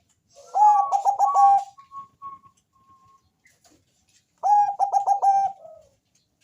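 Bangkok-type perkutut (zebra dove) singing its cooing song: two phrases about four seconds apart, each a quick run of stuttering notes.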